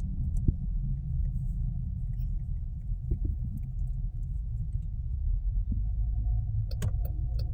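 Low, steady rumble of a car running, heard from inside its cabin, with a few faint clicks near the end.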